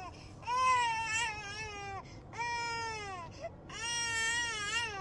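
A dog crying in long, drawn-out whining howls that sound like a baby's cry. There are three, each over a second long and sagging in pitch, with short pauses between them.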